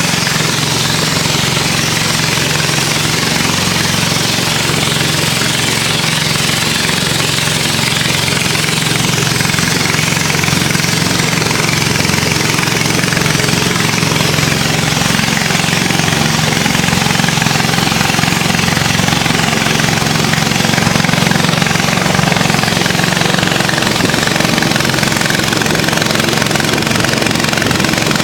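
Small river boat's engine running steadily at a constant speed, with a steady hiss over it.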